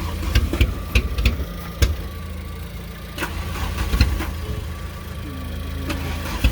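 Car engine idling unevenly, with several sharp knocks or pops over the hum during efforts to get a carburetted race car going.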